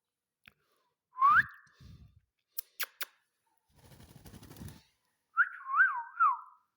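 Ringneck parakeet whistling: a single rising whistle about a second in, then near the end a quick run of three up-and-down whistled notes. Three sharp clicks and a soft rustle fall in between.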